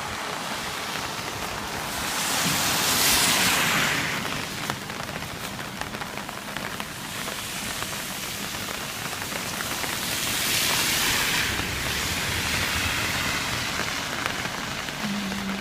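Steady hiss of rain, swelling louder twice: about two to four seconds in and again around ten to eleven seconds.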